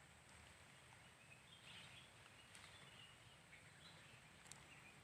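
Near silence: quiet outdoor ambience with a few faint, short, high bird chirps.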